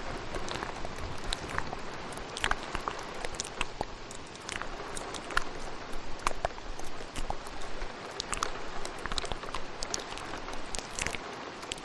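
Steady rain with ASMR mouth sounds layered over it: many short, irregular mouth clicks scattered throughout.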